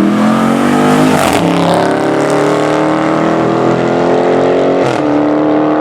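Car engine accelerating hard at full throttle, its pitch climbing steadily and dropping twice with upshifts, about a second in and again near the end.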